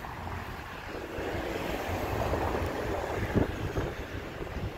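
Rake of intercity coaches being shunted by an FS D.245 diesel shunting locomotive: a steady rumble of wheels on rails that swells about a second in, with one sharp clank about three and a half seconds in.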